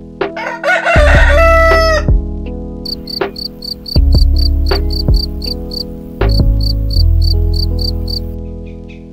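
A rooster crows about a second in. Then a field cricket chirps, a fast, even train of high-pitched pulses, about five a second, with a short break midway. Background music with low sustained notes plays underneath.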